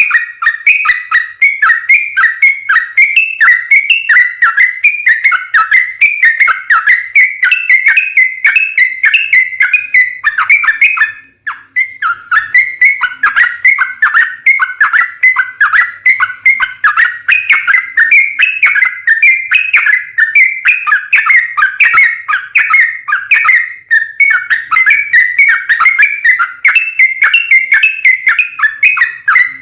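Yellow-vented bulbul (trucukan) song: a fast, unbroken run of loud whistled notes. It is the long rapid 'ropel' style used as a lure call to set other bulbuls singing, with one brief pause about 11 seconds in.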